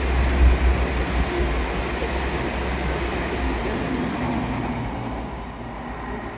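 A train running through the station, its noise slowly fading away over the last couple of seconds, with wind buffeting the microphone in a low rumble.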